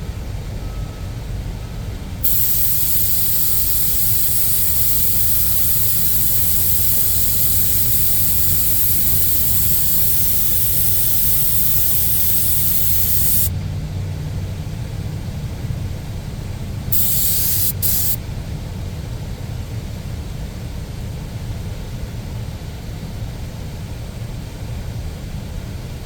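Spray gun hissing as it lays a colour coat onto a vinyl car seat: one long spray of about eleven seconds that cuts off abruptly, then two short bursts a few seconds later. A steady low rumble runs underneath.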